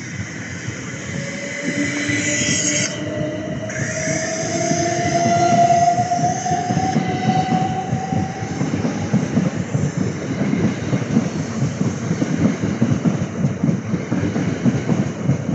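Class 375 Electrostar electric multiple unit pulling away: its traction motors give a whine that climbs steadily in pitch for several seconds, with short high squeals in the first few seconds. In the second half the wheels clatter rhythmically over the rail joints as it gathers speed.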